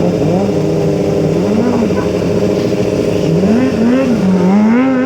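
Stunt motorcycle engine revving up and down over and over, its pitch rising and falling about once a second, over a steady drone.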